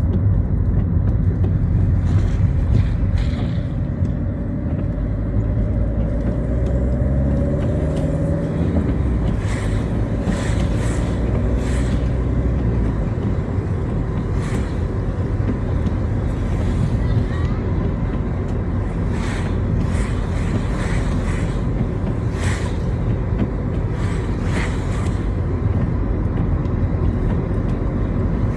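Citroën Xsara driving on a wet road: a steady low engine and road rumble, the engine note climbing through the revs in the first several seconds, with short hissing swishes of water from the tyres now and then.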